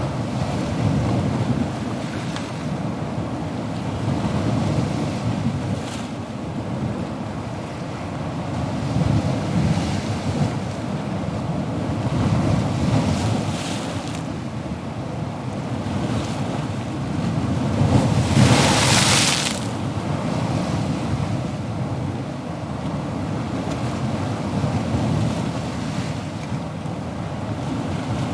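Ocean surf: waves washing in, swelling and easing every few seconds, with one louder, hissing wave breaking about two-thirds of the way through.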